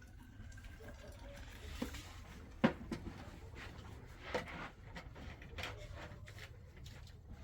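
A few scattered knocks and clatters of objects being handled, the loudest a sharp knock about two and a half seconds in, over a low steady rumble.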